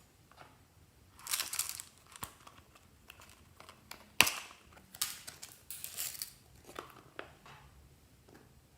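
Bursts of crinkling and crunching handling noise, with one sharp click about four seconds in.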